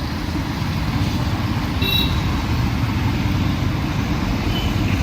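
Steady rumble of road traffic on a busy city street, vehicles passing, with a brief high-pitched chirp about two seconds in.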